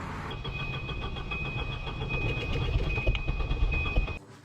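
A vehicle running with a heavy low rumble, overlaid by a steady high-pitched whine pulsing rapidly and evenly. It cuts off suddenly near the end.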